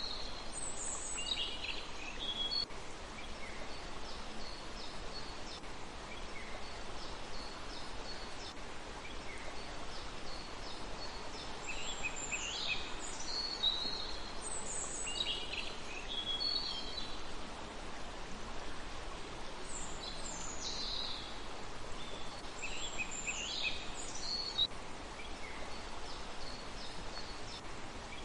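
A songbird singing high, quick phrases of descending chirps in clusters every several seconds, with fainter short notes between, over a steady background hiss.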